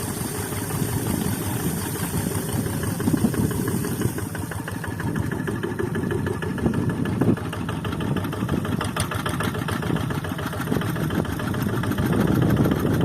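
The diesel engine of a Quick Zeva G3000 hand tractor running steadily, with a fast, even chugging of firing pulses.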